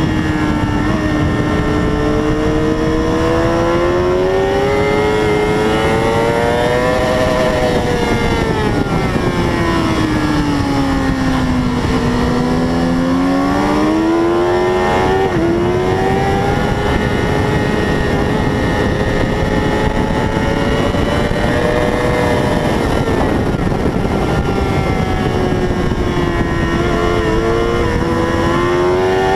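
600 cc racing motorcycle engine at speed, its pitch rising and falling with the throttle and gear changes over a steady noisy rush. About twelve seconds in the pitch drops low, then climbs again through the gears.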